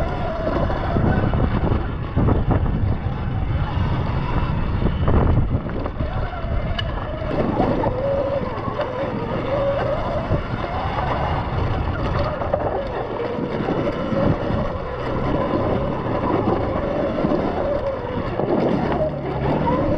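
Sur-Ron X electric dirt bike being ridden hard on a rough trail: its motor and chain drive whine, rising and falling with speed, over wind buffeting the microphone and a low rumble from the ride.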